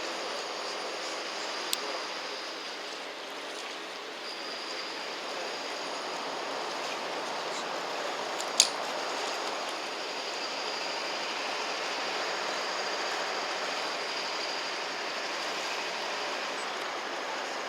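Steady riverside background noise with no clear engine, with a faint high thin tone coming and going. There is a small click about two seconds in and a sharp, louder click a little past the middle.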